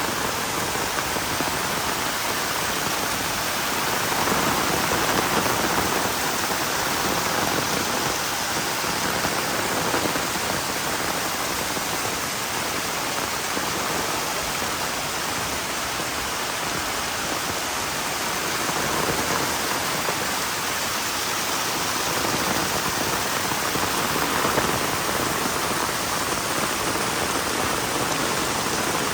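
Heavy rain falling steadily, a dense even hiss of drops on the ground and surfaces that swells and eases slightly.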